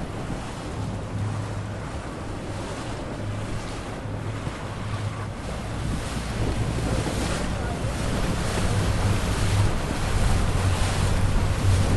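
Wind buffeting the microphone over waves and rough water, with a low steady hum underneath; the wash grows louder about halfway through.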